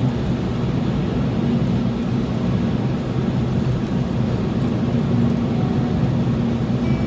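Steady road and engine noise of a car being driven, an even low rumble with no change.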